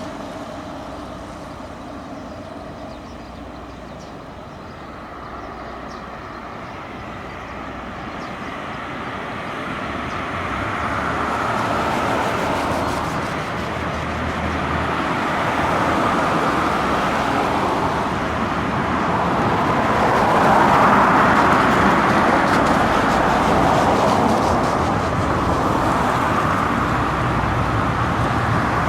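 A train approaches at slow speed. Its running noise grows steadily louder over the first two-thirds and then stays loud.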